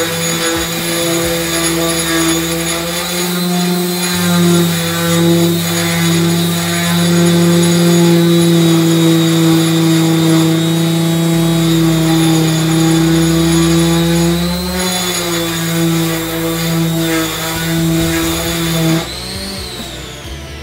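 Electric orbital sander running steadily on the wooden blade of a cricket bat, a constant motor hum, cutting off abruptly near the end.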